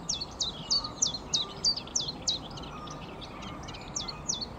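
A songbird repeating a short, high note that slides downward, about three times a second, with a brief break a little after three seconds in.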